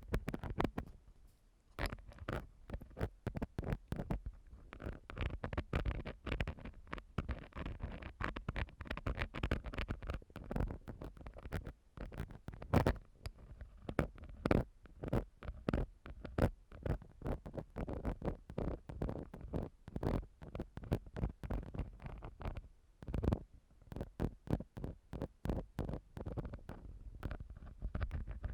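Ear-cleaning ASMR: an ear-cleaning tool (metal ear pick or cotton swab) scraping and rubbing directly on a microphone. It makes a rapid, irregular run of close scratches and clicks.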